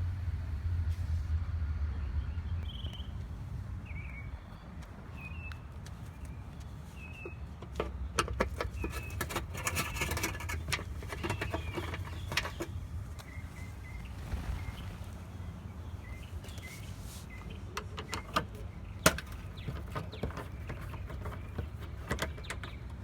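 Birds chirping over a steady low rumble, with two spells of clicking and rattling, about eight seconds in and again later.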